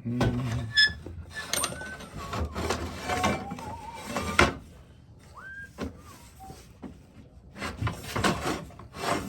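Clamps being handled and fitted onto a glued wooden table leg: several sharp knocks of metal and wood, scraping, and a few short squeaks as the clamp parts slide and tighten. The loudest knock comes about four and a half seconds in.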